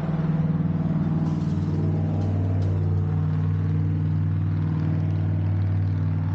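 Vehicle engine running at a steady, even speed, a low drone that neither rises nor falls in pitch.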